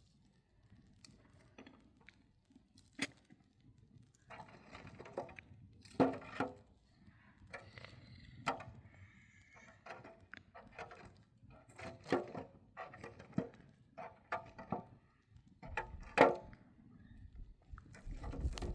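Irregular knocks and clicks mixed with rustling, as of things being handled and set down, with two sharper knocks about six and sixteen seconds in.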